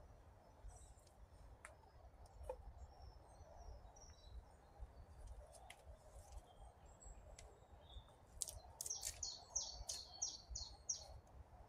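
Wild birds chirping, with one bird singing a quick run of about eight short, high repeated notes starting about eight and a half seconds in. A few faint clicks.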